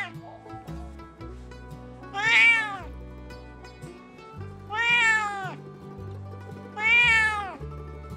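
A calico cat meowing three times, about two and a half seconds apart, each call rising then falling in pitch, over background music.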